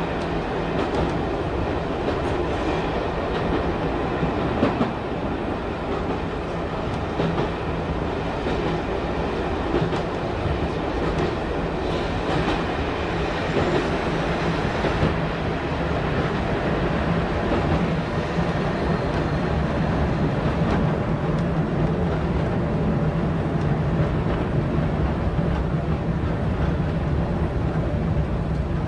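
Diesel multiple unit running along a branch line, heard from inside the driving cab: steady wheel and engine noise with scattered clicks of the wheels over the rail joints. A steady low hum grows stronger in the second half.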